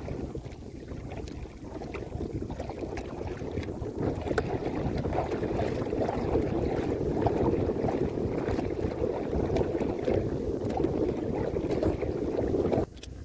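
Wind buffeting the microphone aboard a sailing canoe under sail, a steady rumbling rush that grows louder about four seconds in and stops abruptly near the end.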